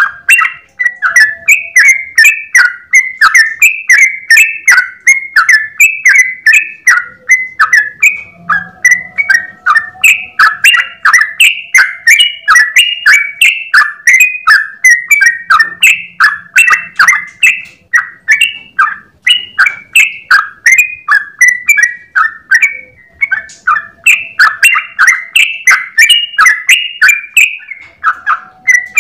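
Yellow-vented bulbul (trucukan) singing a long, unbroken ropel: rapid, loud, bubbly notes, about three a second, with no pause.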